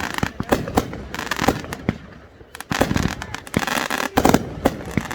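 Fireworks going off: a rapid run of sharp bangs and crackling bursts, several a second.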